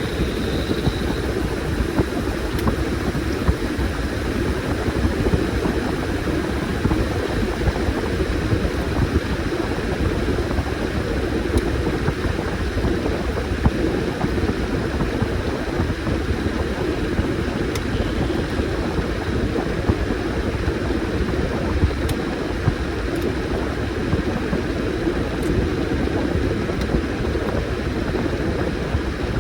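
Washing machine running with a load of towels: steady motor and drum noise, with a few faint ticks.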